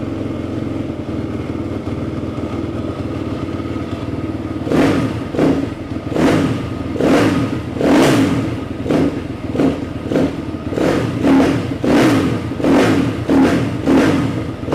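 YCF pit bike's Daytona single-cylinder four-stroke engine idling with the choke off, steady at first; from about five seconds in, its revs rise and fall over and over, roughly one surge every 0.7 seconds.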